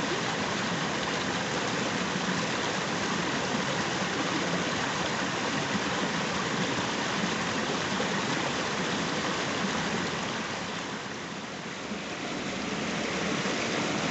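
Rushing river water flowing steadily, a constant noisy wash that eases briefly about eleven seconds in.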